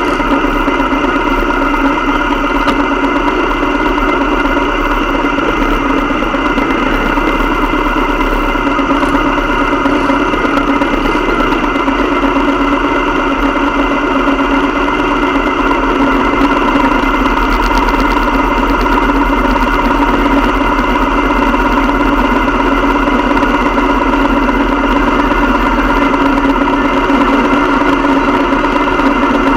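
Motorcycle engine running at a steady pitch, with no revving or gear changes.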